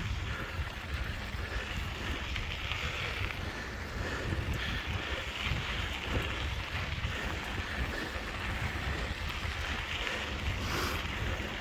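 Wind buffeting the microphone, a steady rumbling rush with no clear breaks.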